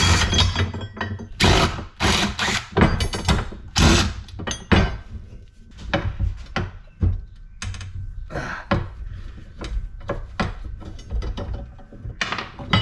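Hand tools knocking and clicking against a cast aluminum LED light fixture as it is taken apart for scrap: a rapid run of clanks and clicks, sparser toward the end.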